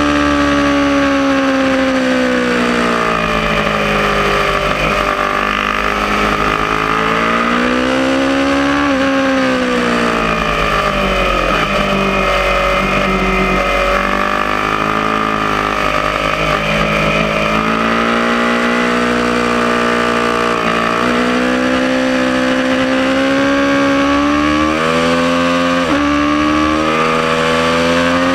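Aprilia Tuono motorcycle engine ridden hard around a racetrack: the revs fall away, then climb again several times over, with sudden jumps in pitch at gear changes.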